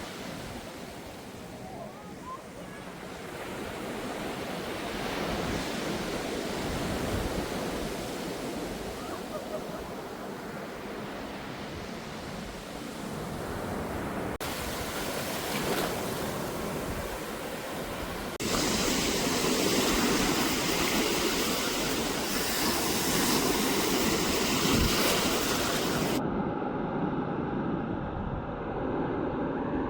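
Rushing water and wind noise that changes abruptly several times between clips. In the last few seconds it turns duller, with a faint steady hum.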